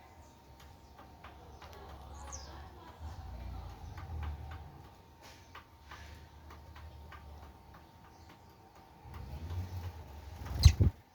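Small birds at a seed feeder board: scattered light ticks of pecking and a short chirp about two seconds in, over a low rumble, with one sharp loud thump near the end.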